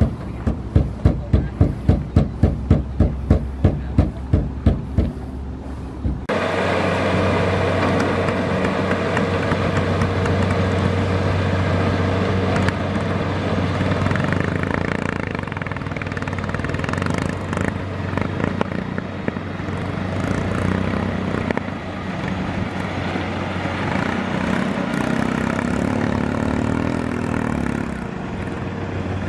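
A loud rhythmic thumping at about three beats a second, which stops abruptly about six seconds in. It gives way to the steady running of a Kubota DC-70 Plus combine harvester's diesel engine, a constant low drone.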